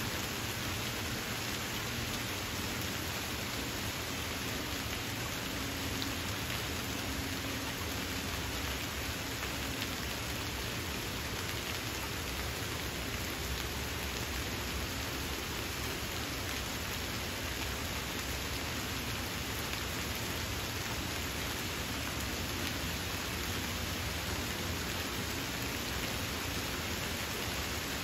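Gentle autumn rain falling steadily on the leaves and branches of a forest, an even, unbroken patter.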